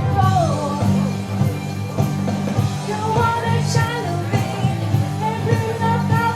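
A vocal group singing a song live over instrumental accompaniment with a steady bass line.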